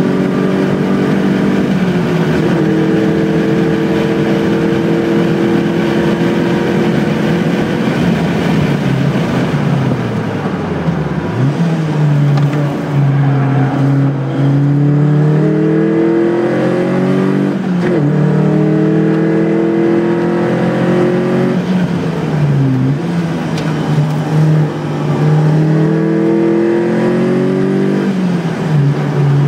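Car engine running hard around a race track, revving up through the gears with a quick drop in pitch at each gear change. About a third of the way through it eases off and winds down for a corner, then pulls hard up through the gears again.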